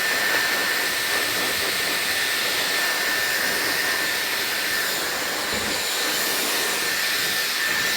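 Dyson hair dryer blowing at a steady speed: a constant rush of air with a thin, steady whine on top.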